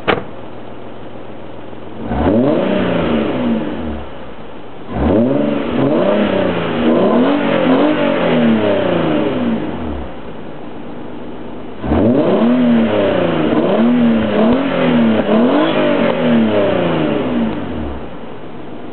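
Nissan 300ZX V6 exhaust with the engine revved in three rounds of blips, its pitch sweeping up and falling back each time, and settling to a steady idle in between.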